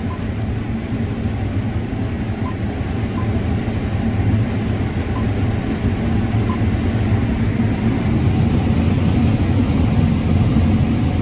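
Combine harvester running steadily while harvesting corn: a loud, low engine hum with the machine's rumble, getting a little louder about halfway through.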